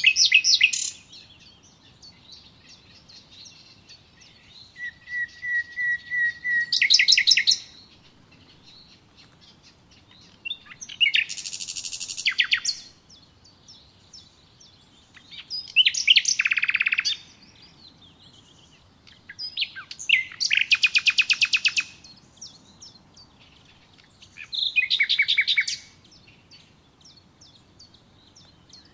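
A songbird singing short, varied phrases about every four to five seconds, several ending in rapid trills.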